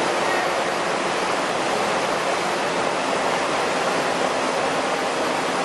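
Chili powder milling machinery running, a steady loud rushing noise without a clear beat or tone.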